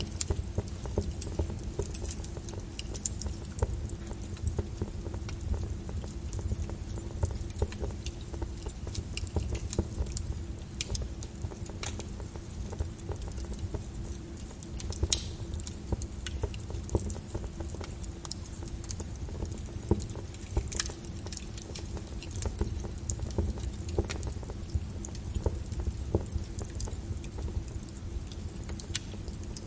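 Wood fire crackling in a fireplace: irregular pops and snaps over a steady low rumble, with one louder snap about halfway through.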